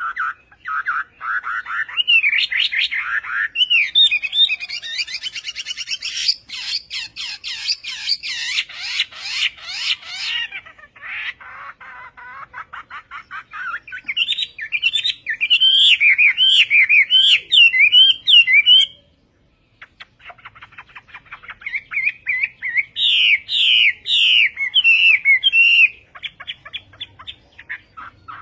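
Chinese hwamei (họa mi) singing a long, varied song of loud whistled phrases and fast repeated trills, with a short break about two-thirds of the way through.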